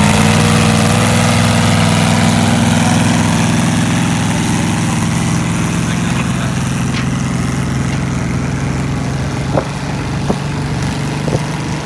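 Garden tractor engine running steadily, its pitch easing down slightly in the first second and then holding at an idle-like note as it slowly fades. A few sharp clicks come near the end.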